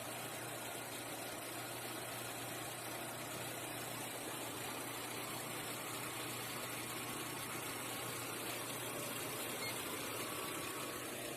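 Car engine idling steadily, running to keep the battery charged while it feeds a power inverter, with a steady low hum under it.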